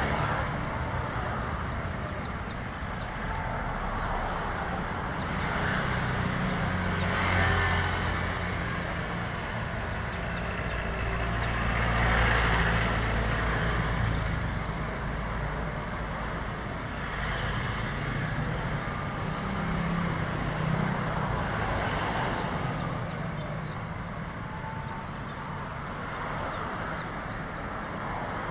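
White-eye (pleci) giving rapid high twittering chirps over a steady low rumble and hiss, with the rumble swelling a couple of times.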